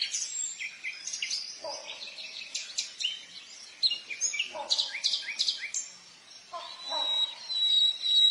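Birds chirping and whistling in quick, overlapping high notes, with a lower call repeating about every two to three seconds and a long held whistle near the end.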